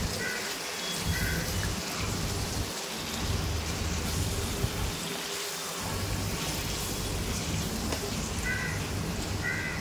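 Prawns and vegetables sizzling steadily in hot oil and masala in a wok, stirred with a wooden spatula.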